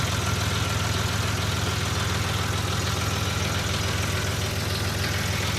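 Vehicle engine running steadily at constant speed, heard close, with a low even hum and no change in pitch.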